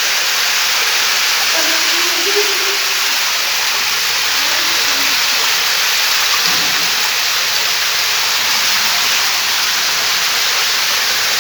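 Heavy rain pouring down in a downpour: a loud, steady hiss.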